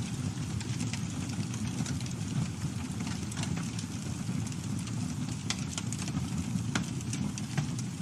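Campfire burning: a steady low rumble of flames with frequent irregular crackles and sharp pops from the burning wood, one of the louder pops near the end.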